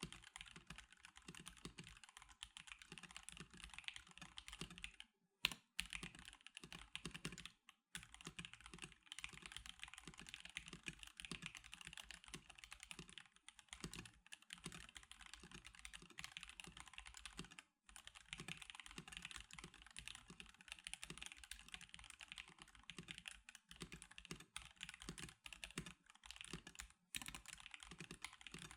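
Fast, continuous typing on a stock NK87 Darkshake Edition mechanical keyboard with NK Silk Milkshake linear switches, a dense patter of keystrokes broken by a few brief pauses.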